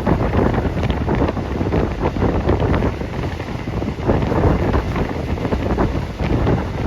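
Loud wind buffeting the phone's microphone, coming and going in uneven gusts.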